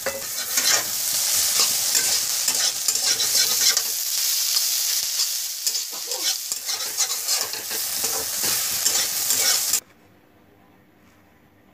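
Egg bhurji sizzling in a hot metal kadhai while a metal spatula stirs and scrapes it in repeated strokes. The sizzle cuts off suddenly about ten seconds in, leaving only a faint low hum.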